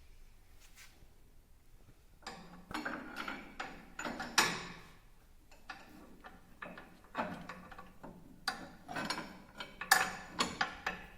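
Clusters of knocks, clanks and rattles of metal fittings being handled, starting about two seconds in and coming in bursts through the rest.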